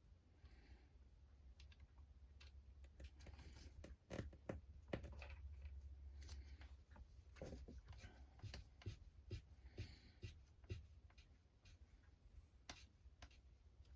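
Faint, scattered clicks and taps of small RC crawler parts and tools being handled during reassembly, clustered about four to seven seconds in, over a low steady hum.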